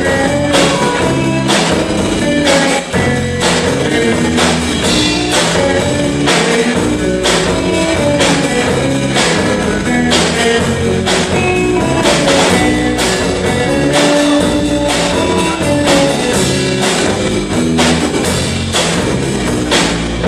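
A rock band playing a song: electric guitars and bass guitar over a steady drum-kit beat.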